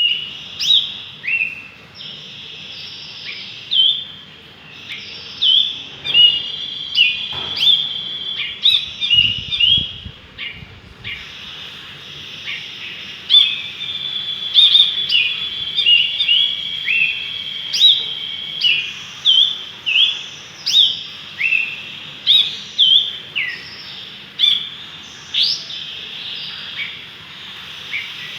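A bulbul, the songbird known as jenggot brinji abu, calling over and over in short, sharp, sweeping chirps, about one every second or two, over a steady high tone. A brief low rumble comes about a third of the way in.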